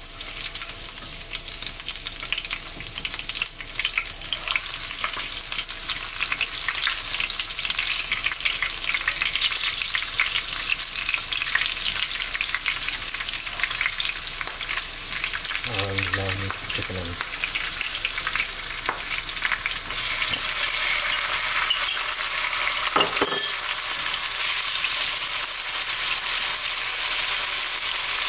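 Garlic and green chilies stir-frying in hot oil in a pan: a steady crackling sizzle full of tiny spattering pops, with the stirring of a spatula through it.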